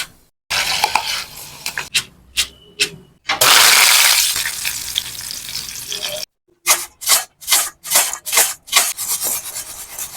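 Cooking in a pan for poha namkeen: a spatula stirring, then a loud sizzle of frying in hot oil for about three seconds that cuts off suddenly, then quick repeated spatula strokes in the pan, about three a second.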